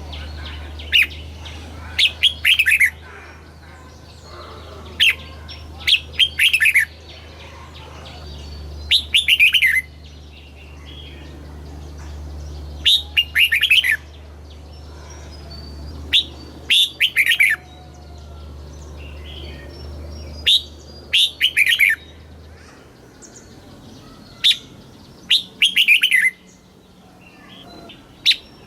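Red-whiskered bulbul singing: short phrases of quick, sliding whistled notes, repeated every three to four seconds. A steady low hum runs underneath and stops about three-quarters of the way through.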